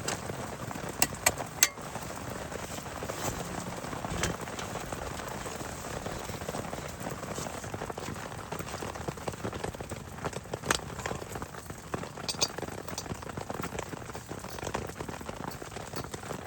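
Steady heavy rain, with a few sharp taps about a second in and now and then after.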